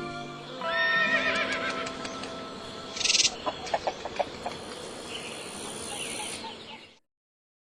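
An animal call with a wavering pitch, followed by a short hissing burst and a few sharp clicks; the sound cuts off about seven seconds in.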